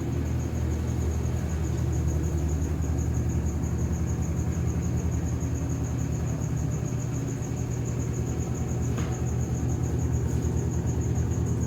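Consul Facilite 8 kg top-loading washing machine spinning a full load: a steady low rumbling hum with a thin high whine over it.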